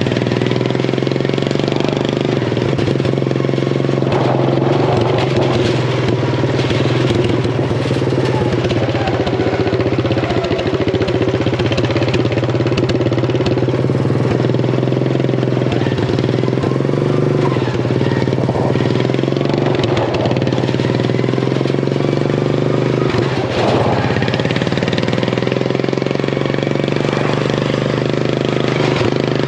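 Craftsman riding mower engine with an open header exhaust, running at a nearly steady speed while being driven.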